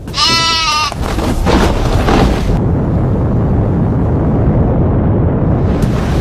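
A short, wavering animal bleat, then from about a second in the loud, steady low rumble of an avalanche coming down the mountain.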